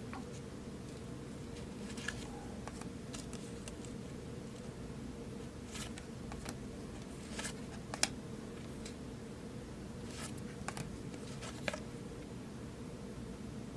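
Football trading cards being handled from a freshly opened pack: scattered light clicks and slides of card on card, with a few sharper snaps about six, eight and nearly twelve seconds in, over a steady low hum.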